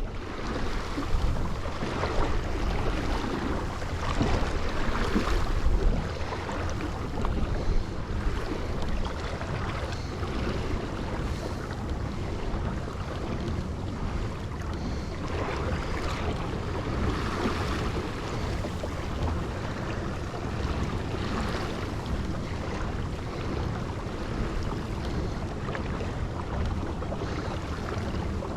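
Strong wind buffeting the microphone with a constant low rumble, over choppy lake water splashing around a kayak. The gusts surge harder in the first few seconds.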